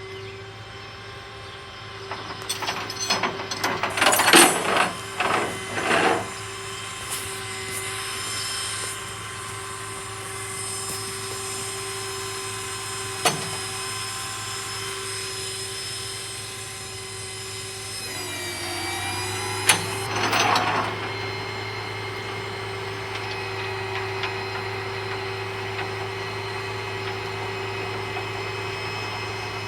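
Tow truck's engine running with a steady hum, its pitch dipping briefly and coming back up about 18 seconds in. A cluster of loud, noisy bursts comes between two and six seconds in, another about 20 seconds in, and a single sharp click about 13 seconds in.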